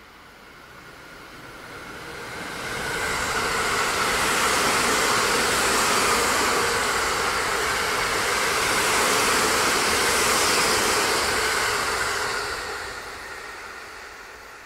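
A 285 series Sunrise Express sleeper train passing at speed: the noise of its wheels on the rails swells over the first few seconds, holds steady while the cars go by, then dies away as the train moves off.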